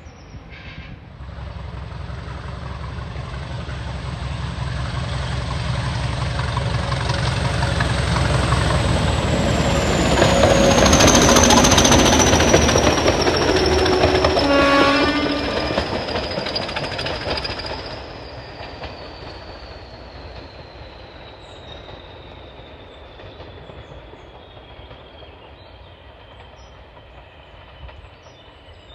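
Heritage passenger train passing on the line: a rumble builds as it approaches, is loudest for several seconds as the coaches go by, with a few short pitched notes among the wheel noise, then fades away. A thin high whine slowly falls in pitch as the train moves off.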